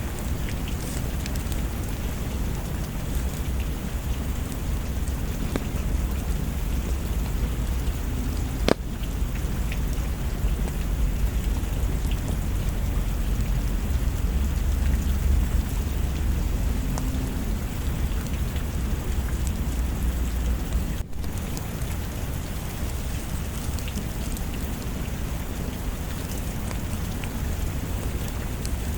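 Steady rain with a low rumble of thunder that swells around the middle, and scattered crackles from a wood fire, one sharp pop about nine seconds in.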